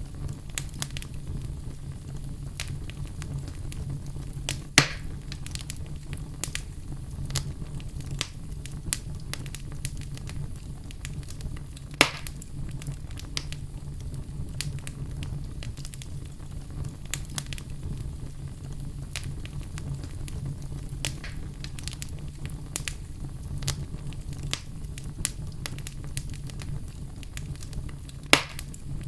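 Fire burning in a fireplace: a steady low rumble of flames under frequent small crackles, with three louder pops about five seconds in, about twelve seconds in, and near the end.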